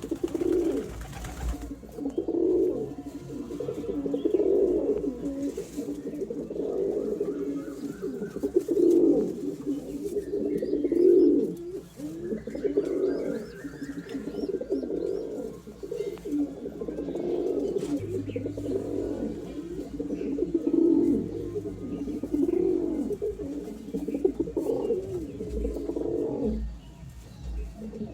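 Domestic pigeons of a breeding pair cooing over and over, low rolling coos repeating every second or two.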